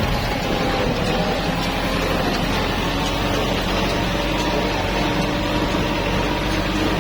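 Tractor's diesel engine running steadily, its pitch creeping up slightly near the end.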